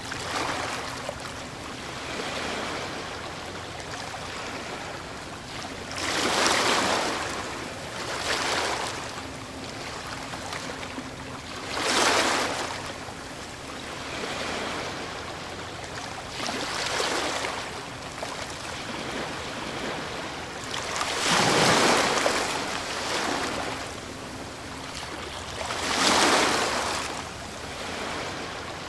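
Ocean waves breaking on a shore, a steady wash of surf with a louder rush every few seconds as each wave breaks, about six over half a minute.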